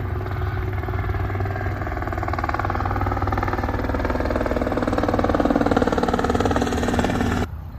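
An engine running steadily, swelling a little louder, then cut off abruptly near the end.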